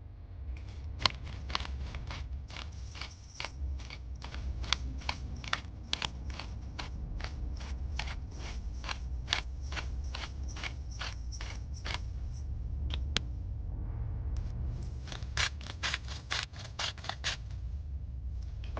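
Food being cut in quick, even strokes, a sharp snip or click about three times a second for some eleven seconds. After a brief pause comes a faster run of about four a second. A steady low hum lies underneath.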